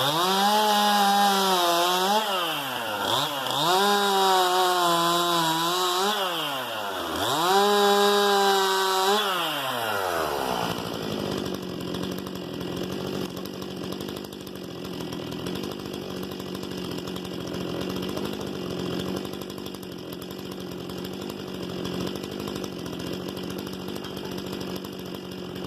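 Stihl MS 261 C-M chainsaw, a two-stroke with M-Tronic engine management, running at high revs in three long bursts whose pitch sags in between. About ten seconds in it drops back and idles steadily.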